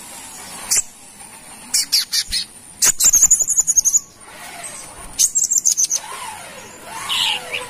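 Brown-throated sunbird calling: sharp, high single chips, then a fast, high trill about three seconds in and a shorter one about five seconds in.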